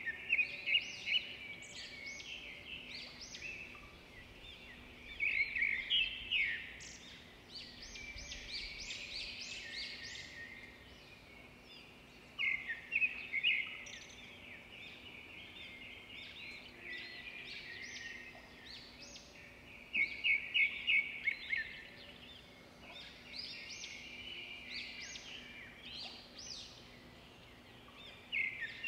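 A songbird singing: loud phrases of quick, rapidly repeated high notes about every seven seconds, with softer twittering between them.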